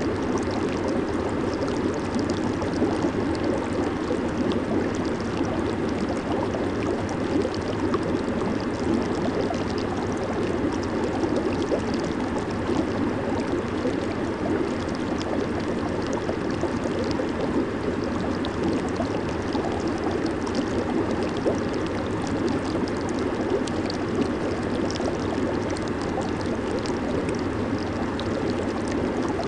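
Hot tub water churning and bubbling steadily from its jets, a constant dense burble with no breaks.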